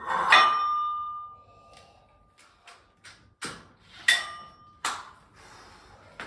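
Metal clanks from a barbell and weight plates: a loud clank near the start that rings on for over a second, then lighter clicks and three more clanks, one of them ringing briefly.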